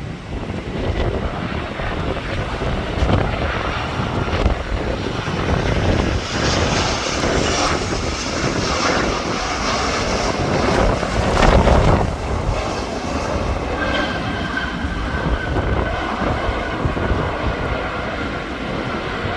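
Airliner landing in strong wind: continuous engine and rumbling noise that builds to its loudest about eleven seconds in, then eases into a steady rumble with a faint thin whine.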